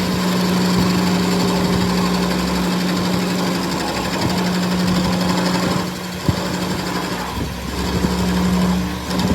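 A workshop machine running with a steady low hum and a fast rattle, easing off about six seconds in and picking up again a second or so later.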